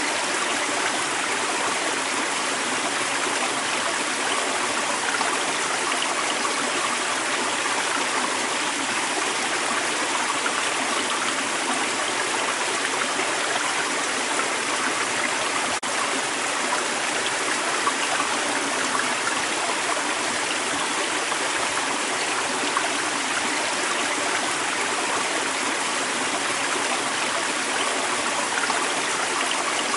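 Creek water running over rocks in a steady, even rush with a gurgle to it.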